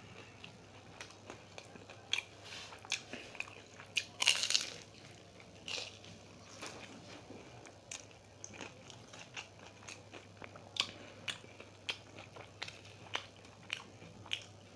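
Close-miked crunching and chewing of a fried samosa's crisp pastry, with many sharp bites scattered throughout. The loudest crunch comes about four seconds in.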